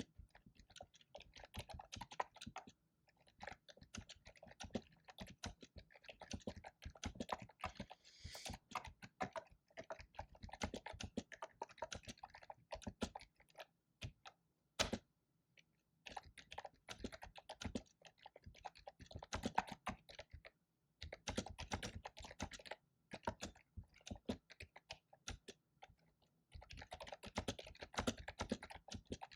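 Fast typing on a computer keyboard: quick runs of keystrokes broken by short pauses, with one lone louder key press about halfway through.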